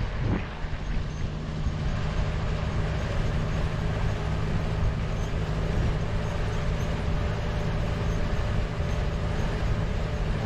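Steady engine hum and road noise of a moving vehicle, running evenly without change.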